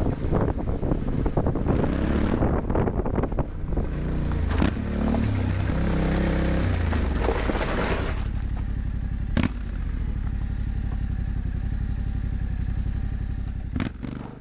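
Yamaha Ténéré 700's parallel-twin engine through an Akrapovic exhaust, ridden on a rough forest road with engine, wind and road noise. About eight seconds in it settles to a quieter, steadier note, and a few sharp knocks sound through it.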